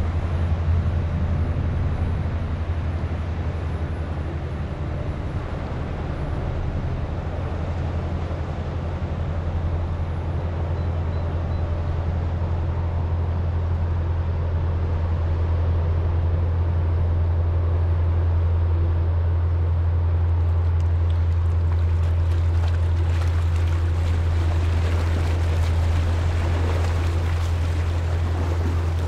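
Low, steady drone of a passing river ship's engine, with water lapping and splashing against the breakwater growing louder in the second half.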